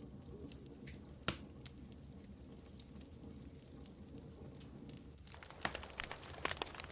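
Wood fire crackling in a fireplace over a low steady rumble, with one sharp pop about a second in and a quicker run of pops and crackles from about five seconds in.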